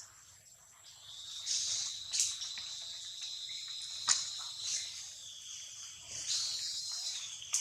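Steady high-pitched insect drone that sets in about a second in and holds, with a few sharp clicks over it.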